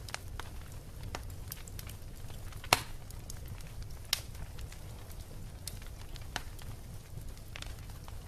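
Bonfire crackling with irregular pops and snaps, two of them louder, near the middle, over a steady low rumble.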